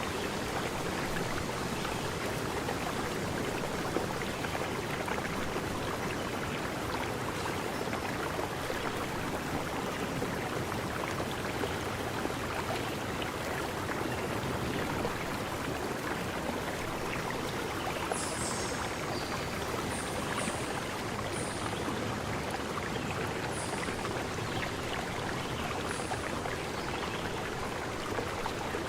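Stream flowing steadily, with a few short high-pitched chirps in the second half.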